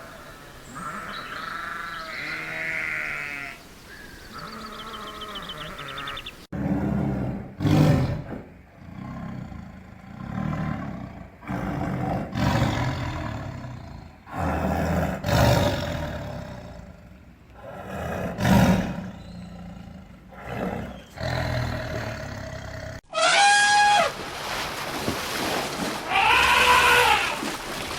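Animal calls in three cut-together clips: first a few pitched, wavering calls, then a long series of deep, loud roar-like calls and grunts repeating every second or two, then high calls that rise and fall.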